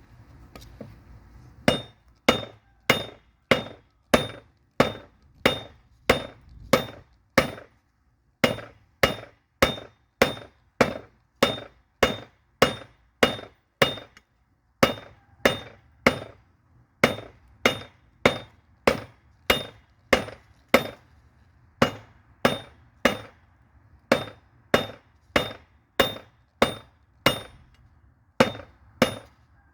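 Blacksmith's hammer forging a railroad spike on an anvil: ringing blows at a steady pace of about one every 0.6 seconds, with a short break every few seconds. The blows begin about two seconds in, after a low rushing noise.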